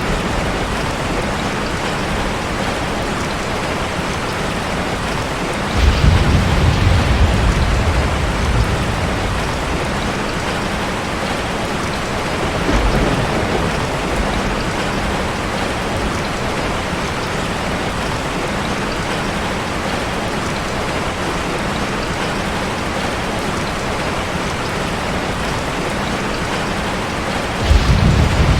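Heavy rain falling steadily on a car, with low rumbles of thunder that break in suddenly about six seconds in, briefly again around thirteen seconds, and once more near the end.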